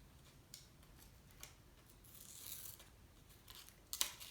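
Scissors snipping through newspaper: a few separate faint cuts, with a longer swish about two seconds in.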